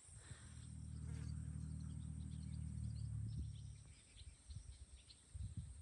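Steady high-pitched insect chirring, over a low hum that fades out about four seconds in.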